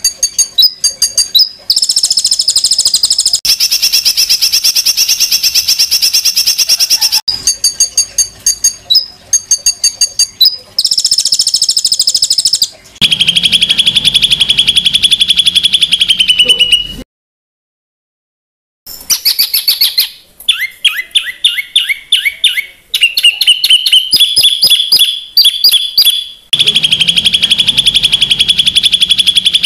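Recorded songbird calls for training contest birds: loud, harsh phrases of fast repeated notes, buzzy trills and rattles, played one after another as spliced segments, with a gap of about two seconds of silence a little past the middle.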